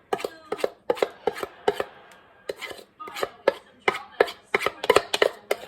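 A utensil knocking and scraping against a pan, as brownie batter is scraped out of it. The sharp taps come in an irregular run, with a short lull about two seconds in.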